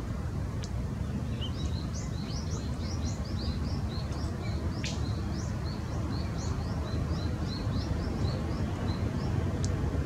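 Small birds chirping in a quick, high-pitched series, several short chirps a second, which stop shortly before the end. Under them runs a steady low background rumble.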